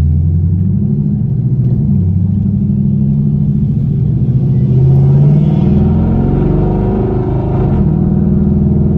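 Straight-piped 2013 Camaro SS 6.2-litre V8 exhaust, loud and deep, running steadily for a few seconds, then rising in pitch as the car accelerates from about halfway, and falling back near the end.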